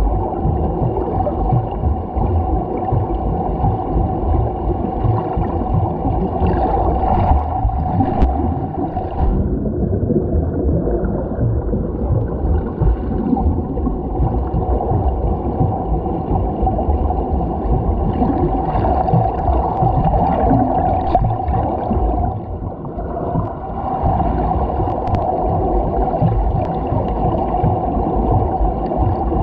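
Swimming recorded on a GoPro in its waterproof housing: continuous muffled churning and bubbling of water from strokes and kicks. The higher hiss drops away for a couple of seconds about a third of the way in, and briefly again later.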